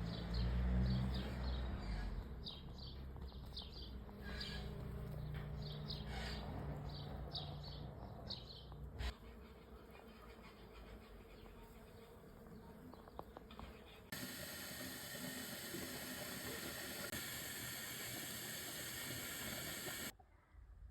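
Bees buzzing with a low hum, with birds chirping over it for the first several seconds. About two-thirds of the way in, a steady hiss takes over until the sound cuts off near the end.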